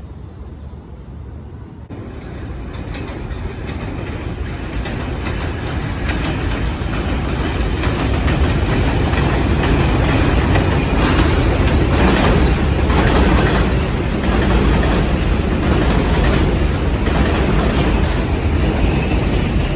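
New York City subway 4 train running into the station, growing steadily louder from about two seconds in, then a loud, even rumble with a regular clatter of wheels over rail joints.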